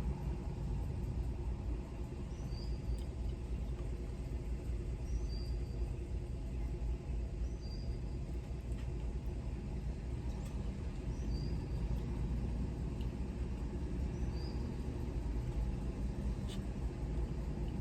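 Steady low rumble of a car at idle, heard from inside the cabin. A faint, high two-note chirp repeats about every three seconds over it.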